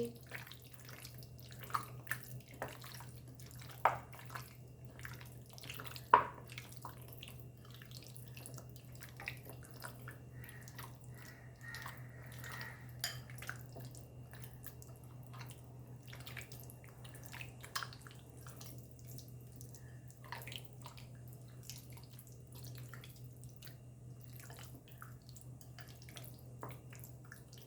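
Chicken pieces being mixed into a thick masala marinade: soft, wet squelching and small clicks, with a few sharper taps, over a steady low hum.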